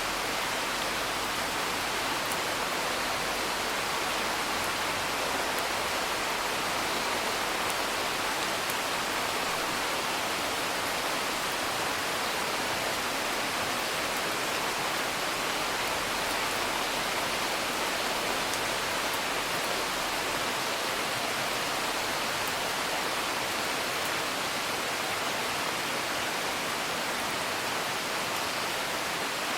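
Steady, even rain hiss, with a few faint scattered ticks on top.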